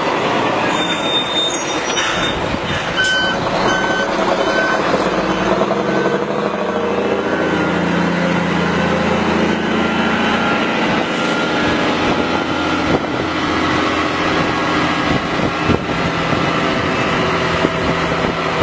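Scania 124L 420 truck's diesel engine running through open stack exhaust pipes, its note swelling for a few seconds midway. A run of short high beeps sounds in the first few seconds.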